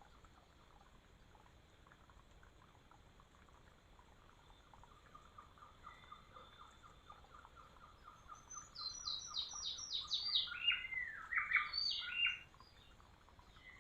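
A bird singing in forest: a long, fast run of short notes that grows louder, then a burst of loud, clear notes sliding down in pitch, cut off suddenly about twelve seconds in.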